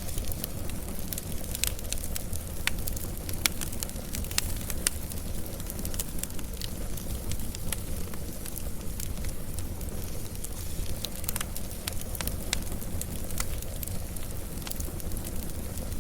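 Wood fire burning, with a steady low rumble of the flames and frequent irregular crackles and pops.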